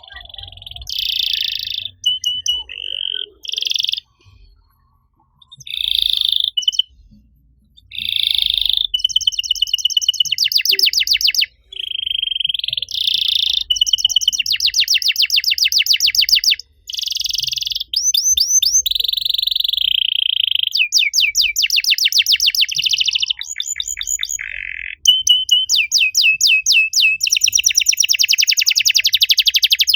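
Domestic canary singing long phrases of fast trills and rolls, mixed with held whistled notes, with a few short pauses between phrases. This is a master song of the kind played to coax other canaries into song.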